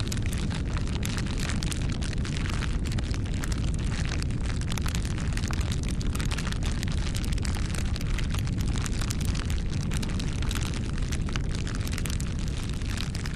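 Wood fire burning: a steady low rumble of flames with dense, irregular crackles and pops from the burning wood.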